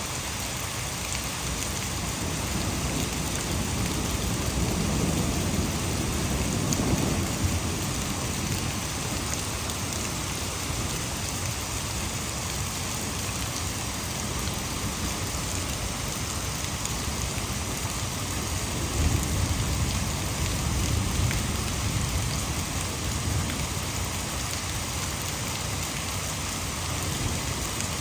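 Heavy rain falling steadily, with two low rolls of thunder: one building about four seconds in and fading by eight, another about nineteen to twenty-two seconds in.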